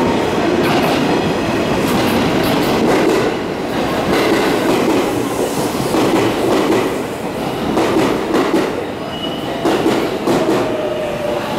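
JR West 207 series electric commuter train pulling into the platform close by, its wheels clacking over the rail joints. A brief thin wheel squeal comes near the end as it slows.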